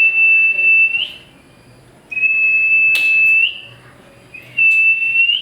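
A high, steady whistled note sounded three times, each held for about a second and flicking up in pitch at the end, with a few sharp clicks between them.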